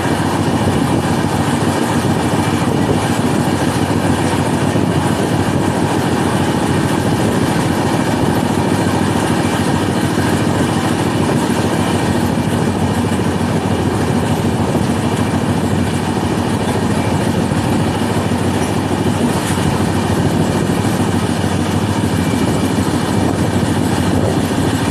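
Passenger train running at speed, heard from an open coach doorway: a steady, loud rush of wheel-and-rail noise.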